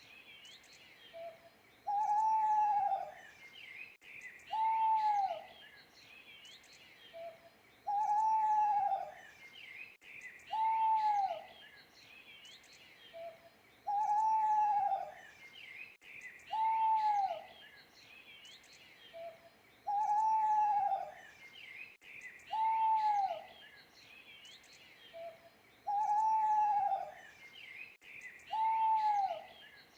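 An owl hooting, one hoot about every three seconds, each rising then falling in pitch, alternating a longer and a shorter hoot, with a small short note before each longer one. Small birds chirp faintly and high behind it.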